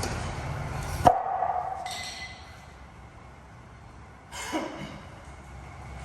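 A sharp knock with a short ringing clink about a second in, after which a low rumbling background drops away; a second, softer knock about four seconds in.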